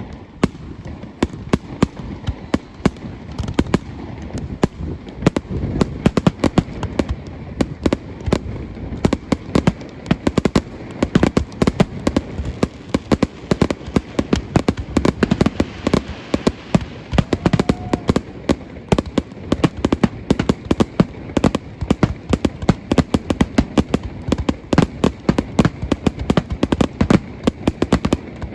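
Fireworks display going off in a rapid, continuous run of bangs and crackles, several reports a second, growing denser and louder after the first few seconds.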